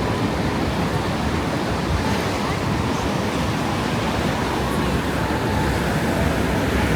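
Ocean surf washing steadily on the shore, with faint voices of people around.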